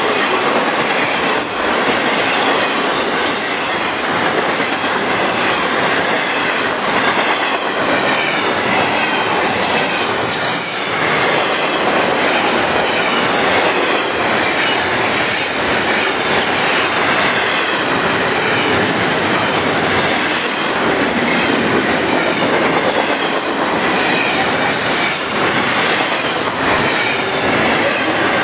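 Double-stack intermodal freight train rolling past at close range: a loud, steady rumble and clatter of steel wheels on the rails as the container cars go by.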